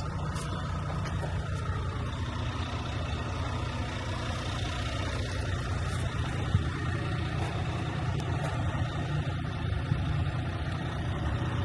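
Heavy diesel truck engine idling with a steady low rumble, a few faint ticks over it.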